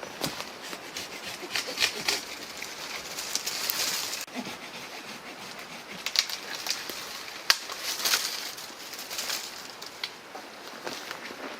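Rustling and crackling of brush and twigs with scattered sharp clicks and knocks, uneven throughout, as someone moves through the boreal forest.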